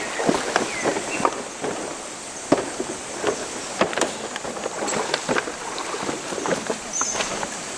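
Irregular knocks and clicks, a few a second, over a steady hiss.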